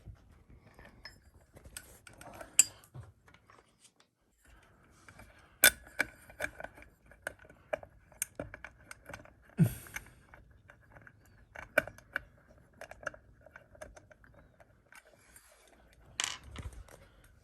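Scattered metallic clicks, clinks and small knocks of screws, a hand screwdriver and the fan's metal mounting hardware being handled and screwed together, with a few louder knocks about six, ten and sixteen seconds in.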